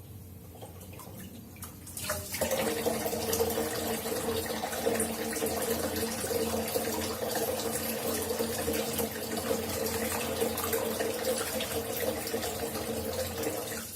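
Kitchen tap turned on about two seconds in, water running steadily into a sink.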